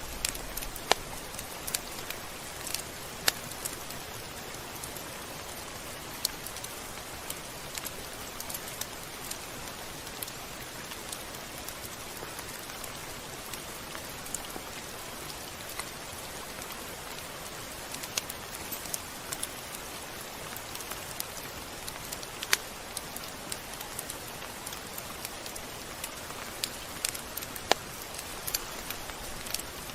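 Steady rain falling, a continuous hiss with frequent sharp drop ticks scattered through it.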